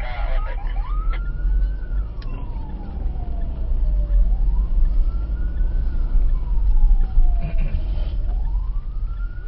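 Vehicle siren in a slow wail, rising quickly and falling slowly about every four seconds, over a steady low rumble of road and engine noise.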